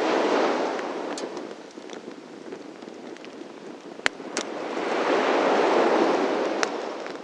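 Wood fire crackling, with scattered sharp pops and snaps of burning logs, the loudest about four seconds in. Under it, sea waves wash in and out in two slow swells, one at the start and one in the second half.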